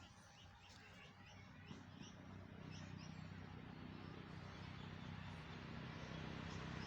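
Small birds chirping faintly in the first few seconds, while a low motor hum grows steadily louder toward the end.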